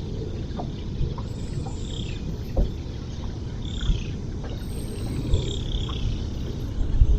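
Outdoor ambience of birds chirping over a steady low rumble, with a few light knocks scattered through.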